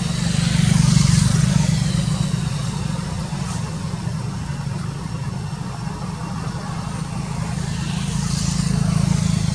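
A motor engine running steadily with a low hum, growing louder about a second in and again near the end.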